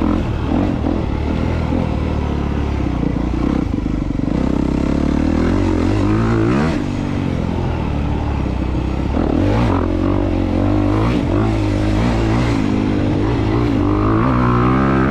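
2022 Honda CRF250R's single-cylinder four-stroke engine running under load as the dirt bike is ridden, its pitch rising and falling repeatedly with the throttle.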